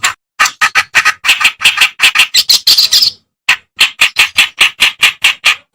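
Reed warbler (kerak basi) singing a fast, harsh chattering song of repeated rasping notes, about six a second, with a brief break a little past halfway. The song starts suddenly out of silence.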